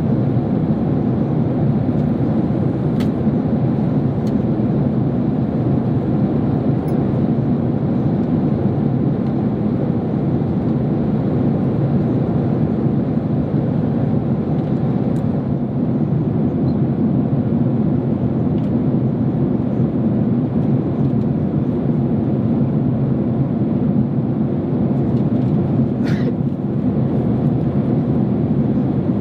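Steady cabin roar of a Boeing 767-300 in flight, heard from the economy cabin: the jet engines and airflow make an even, low rumbling noise. A few faint clicks sound, and a brief higher sound comes near the end.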